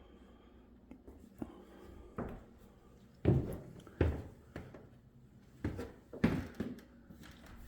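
Footsteps thudding on an indoor floor as a person walks through a house: about eight uneven dull thumps, the heaviest about three, four and six seconds in.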